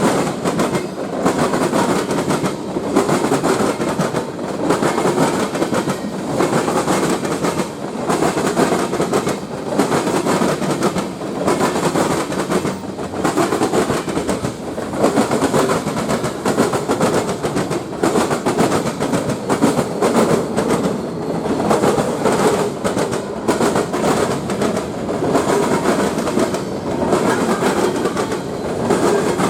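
A train's cars rolling steadily past, wheels clicking over the rail joints in a repeating rhythm.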